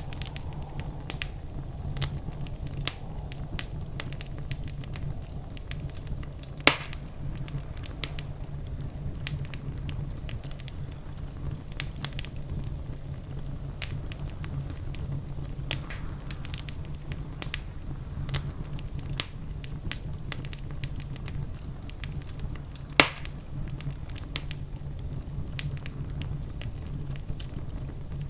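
Fire crackling in a fireplace: a steady low rumble with scattered small crackles, and two loud sharp pops, about seven seconds in and again about twenty-three seconds in.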